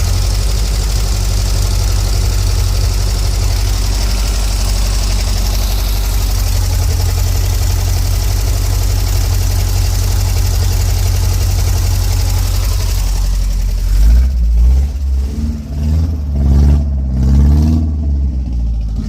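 UAZ Bukhanka van's engine idling steadily just after starting. About fourteen seconds in, the sound turns uneven, swelling and dipping in short surges.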